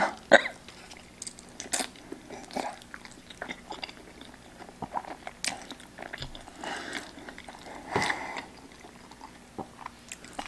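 A person chewing a large mouthful of creamy vegan carbonara pasta, with irregular wet mouth clicks and smacks. A somewhat louder mouth sound comes about eight seconds in.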